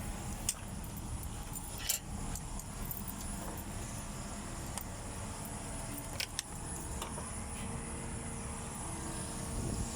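A steady low rumble, with a few sharp clicks and clinks like small metal parts or tools being handled.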